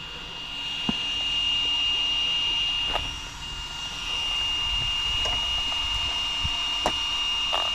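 Electric drive of a 6S brushless RC basher car running, with a steady high whine over a rushing noise that swells and eases, and a few light knocks.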